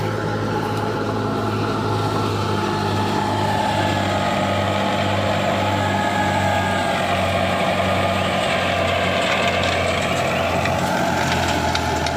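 Heavy farm machinery's diesel engine running steadily at constant speed, a low even drone with a steady whine above it.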